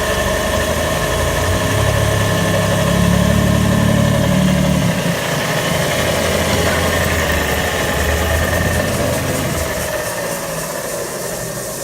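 Mohn 2 HP wet ski-tuning sander running its grinding belt, a steady mechanical hum and whine with the hiss of the water spray on the belt. The sound eases off slightly near the end.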